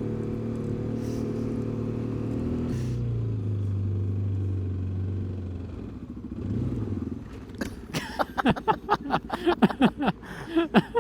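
Kawasaki KLX250 dual-sport's single-cylinder four-stroke engine running steadily, settling to a lower steady note about three seconds in. After a brief rev near the six-second mark it gives a quick string of short, sharp throttle blips, each falling away at once, in the last few seconds.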